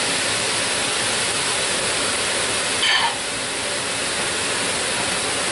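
Chopped onion and raw ground beef sizzling in oil in a large skillet, a steady hiss, with a short clink about three seconds in.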